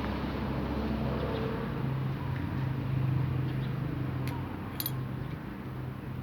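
A steady low mechanical hum, with a few light metallic clicks and clinks near the end.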